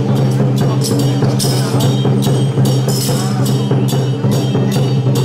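Traditional temple percussion ensemble of drum, gongs and cymbals playing a brisk, steady beat, with cymbal clashes about two to three times a second over a steady low hum.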